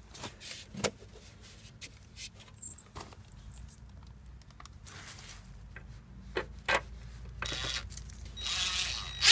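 Small metallic clicks and rattles as screws and vent parts are handled. About 7.5 seconds in, a cordless Ridgid impact driver starts to run, driving a screw through the dryer vent flange into a masonry anchor.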